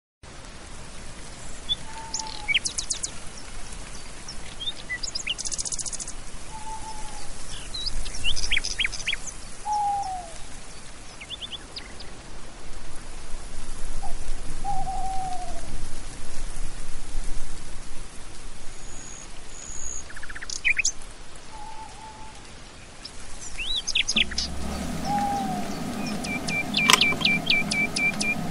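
Birds calling: a short, falling whistle repeats every few seconds among scattered high chirps and quick trills. In the last few seconds, steady held tones and a low hum join in.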